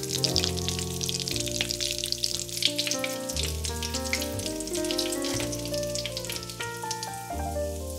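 Potato croquettes deep-frying in a pan of oil: a dense crackle and sizzle that thins out over the last couple of seconds, under background music.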